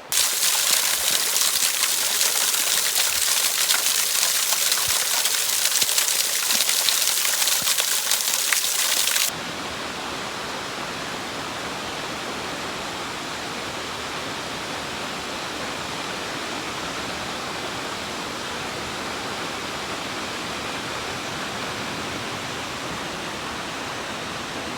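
Rushing water of a waterfall: a loud, bright, steady hiss that cuts off abruptly about nine seconds in, giving way to a quieter, deeper steady rush.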